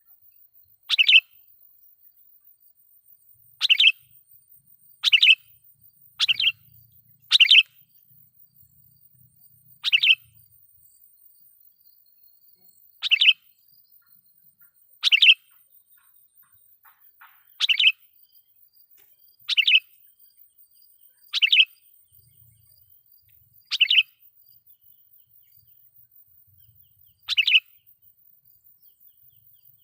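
Sooty-headed bulbul (kutilang) giving loud, sharp lure calls: about thirteen short calls, spaced irregularly one to three seconds apart. These are the challenge calls used to draw and provoke wild bulbuls.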